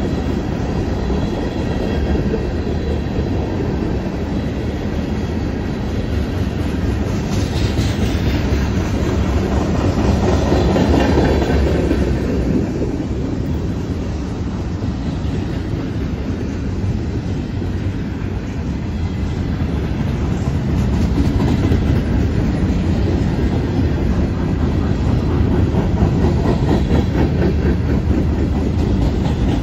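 A freight train of tank cars and bulkhead flatcars rolling past close by, its steel wheels rumbling and clattering over the rails.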